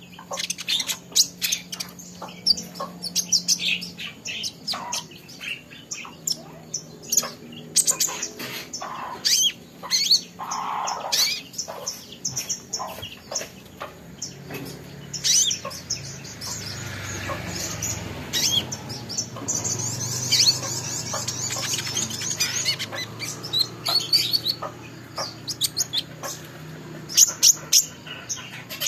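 A small songbird, a young kolibri ninja sunbird, chirping and twittering in quick, short high calls, with a denser run of high twitters in the second half. A faint steady low hum lies underneath.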